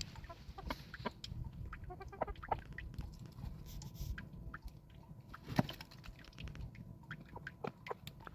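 Short bird-like calls among scattered small clicks and taps, with one sharper knock about five and a half seconds in.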